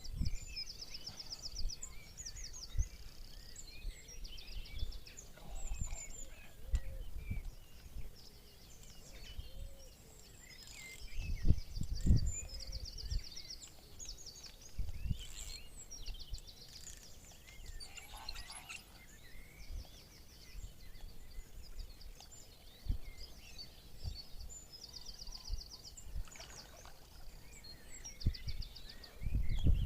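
Outdoor birdsong: songbirds calling, with one fast, evenly spaced trilled phrase that comes back about every twelve seconds. Low rumbles and bumps on the microphone come and go underneath, loudest about a third of the way in.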